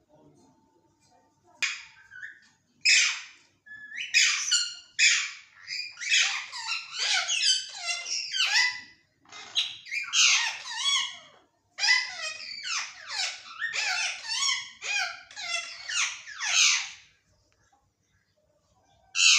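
Indian ringneck parrot calling and chattering in a long run of short, high calls that bend up and down in pitch, then falling quiet near the end before one last call.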